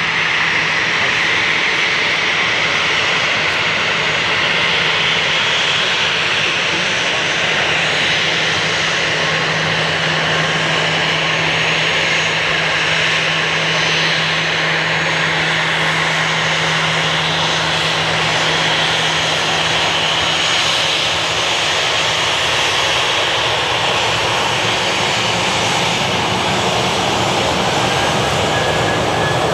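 Boeing 737-700's CFM56-7B jet engines running, a steady even roar with a low hum underneath that holds level throughout.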